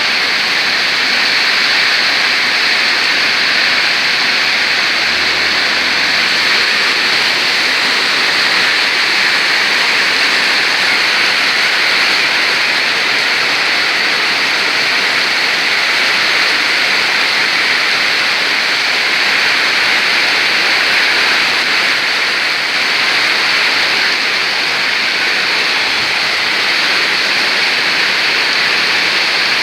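Heavy rain pouring down in a windstorm, a loud steady rushing hiss.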